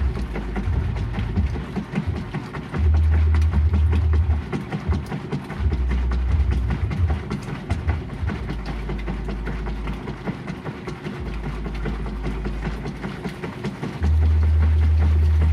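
GE Profile washing machine running: a loud, deep motor hum that switches on and off in stretches of one to two seconds, over a constant rattling clatter.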